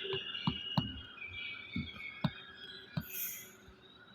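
Light, irregular clicks and taps, about one every half second, from writing on a board. A faint steady high tone sits underneath.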